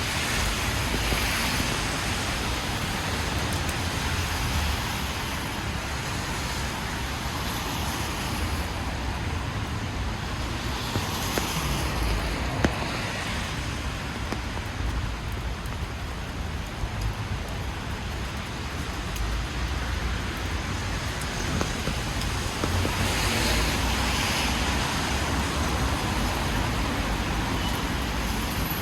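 Rain-soaked city street: a steady hiss of rain and traffic, with cars swishing past on wet asphalt and swelling up and fading away a few times.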